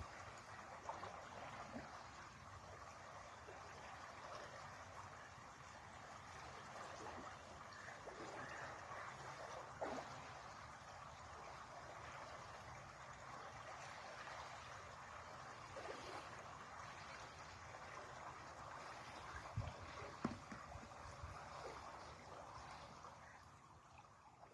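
A river flowing steadily, a continuous even rush of water. A few brief sharp sounds stand out over it about ten seconds in and twice around twenty seconds, and the sound fades out near the end.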